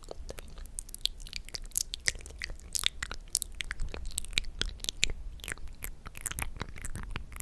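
ASMR mouth sounds close to the microphone: quick wet clicks and smacks of lips and tongue, several a second.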